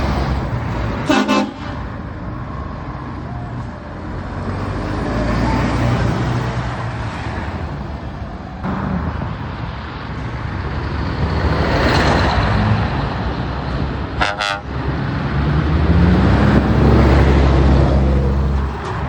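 Heavy trucks driving past with their engines running, and two short horn blasts: one about a second in and one about fourteen seconds in. Near the end an engine rises in pitch as a truck accelerates away.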